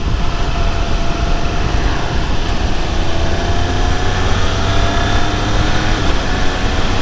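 Triumph Speed Triple 1200 RR's inline three-cylinder engine running on the move, its note rising slowly, under heavy wind noise on the microphone.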